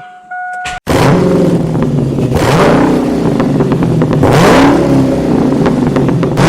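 Chevrolet 5.3-litre LS V8 firing for the first time after an engine swap. It catches suddenly about a second in and runs with the revs rising and falling twice. The owner calls the sound very metallic and saw no oil pressure on this first run.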